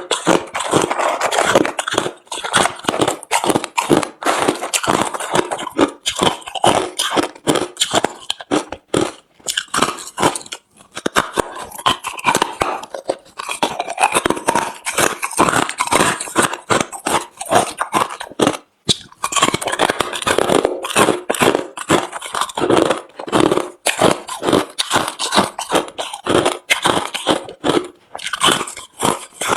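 A person chewing hard, refrozen crushed ice close to the microphone: rapid, irregular loud crunching with brief pauses between mouthfuls.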